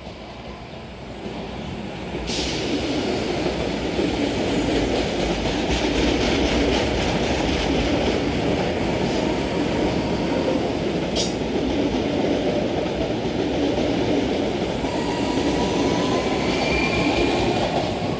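A train running past close by, swelling in about two seconds in, then a steady loud rumble of wheels on rails with clicking over the joints and some wheel squeal.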